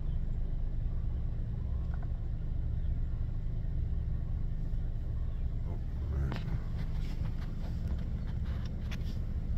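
Car running, a steady low rumble heard from inside the cabin, with a few faint clicks near the end.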